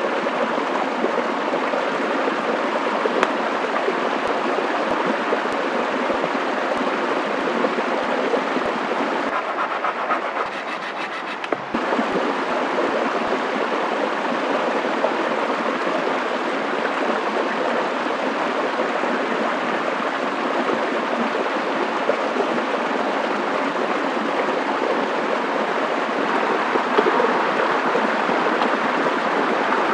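Steady rushing of flowing water, with a few faint clicks and taps over it in the first half.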